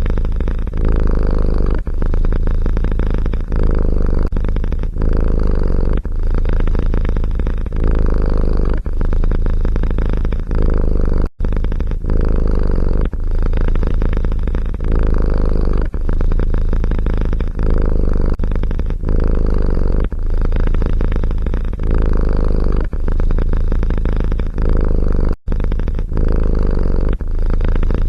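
Domestic cat purring loudly and close up, in a steady rhythm of about one purr cycle a second. It breaks off abruptly twice.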